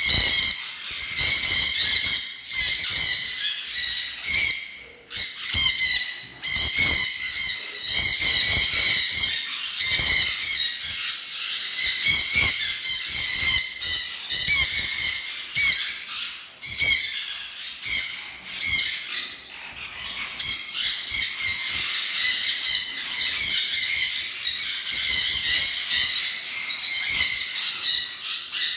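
A flock of caged pet birds calling all together: a dense, continuous chatter of high-pitched squawks and chirps.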